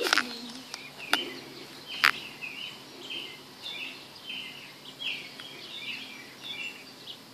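Small birds chirping repeatedly in short, irregular calls. A few sharp clicks in the first two seconds are the loudest sounds.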